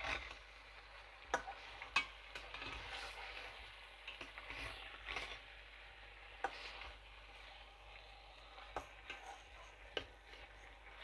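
Chicken pieces frying gently in a pan over low heat: a soft, steady sizzle with scattered sharp pops and ticks, a handful of them louder than the rest.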